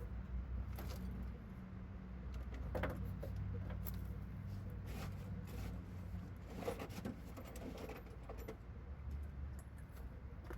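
Scattered light clinks and taps of transmission parts being fitted by hand, over a steady low hum.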